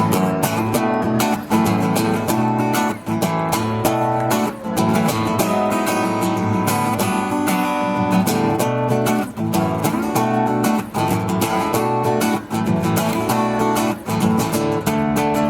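Acoustic guitar strummed in a steady rhythm, the instrumental introduction to a song.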